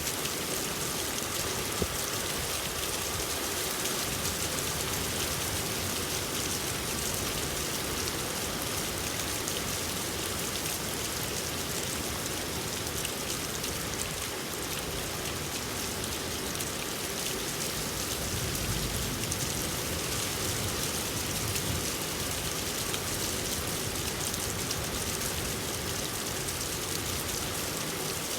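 Steady rain falling on surfaces: an even hiss of countless drops, with a brief low rumble about two-thirds of the way through.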